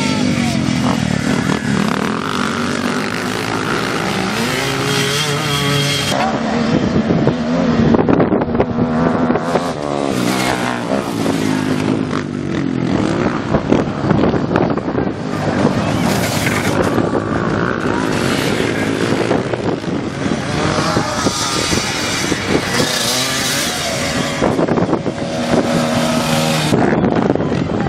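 Engines of small off-road motorcycles and quads racing, revving up and down over and over as they pass, with their pitch rising and falling.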